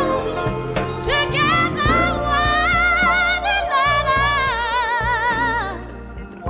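Music with a solo voice singing long, held notes with vibrato over instrumental backing; the voice drops away near the end before the next phrase begins.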